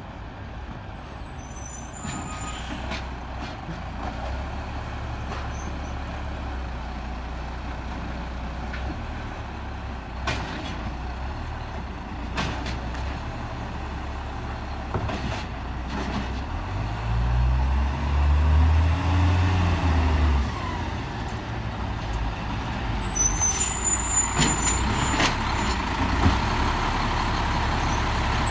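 Diesel engine of a Peterbilt 320 garbage truck with an Amrep Octo automated side loader, running at a low idle. A little past the middle it revs up for a few seconds and drops back. There are scattered sharp knocks, and brief high squeals come at the start and again near the end.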